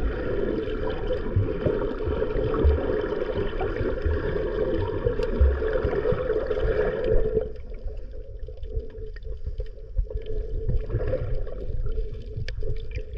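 Underwater sound picked up by a diving camera: muffled water noise and low knocks with a steady hum, which drops to a quieter, thinner wash with small clicks about seven seconds in.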